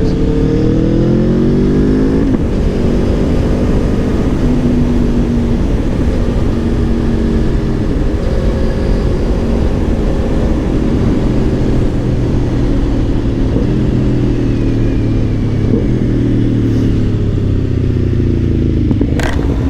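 Aprilia Tuono V4 motorcycle engine pulling hard under acceleration: the revs climb for about two seconds, drop at an upshift, then hold high before easing to a lower, slowly falling note. Steady wind rush over the microphone throughout.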